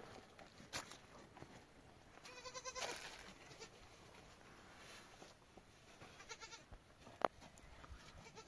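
A sheep bleating: one wavering bleat a couple of seconds in and a fainter one later, with a single sharp knock shortly before the end.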